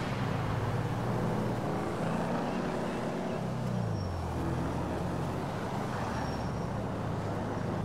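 Pickup truck engine running steadily, its pitch dropping about four seconds in, as when the truck eases off or shifts up.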